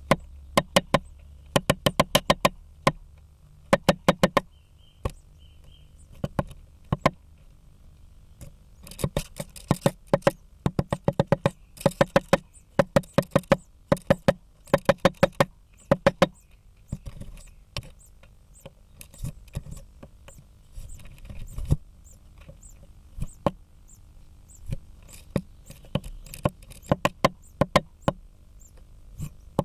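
Great spotted woodpecker pecking at a blue tit nest: sharp wooden knocks come in quick runs of several strikes, with short pauses between runs.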